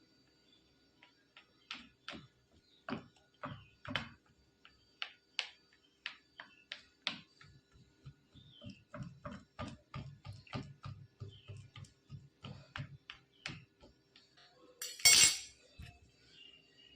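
A metal fork tapping and pricking rolled pizza dough on a board: a run of short sharp taps, quickening to about four a second midway, with a louder clatter of a utensil near the end.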